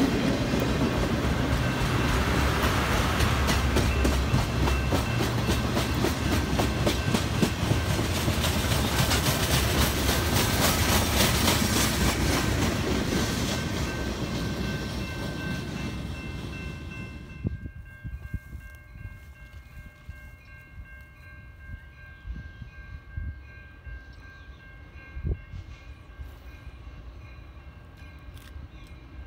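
Railroad cars of a CN weed sprayer train, spray cars and then tank cars, rolling past close by with their wheels clicking and clattering over the rails. The sound fades as the last car goes by, and about 17 seconds in it drops to a much quieter background.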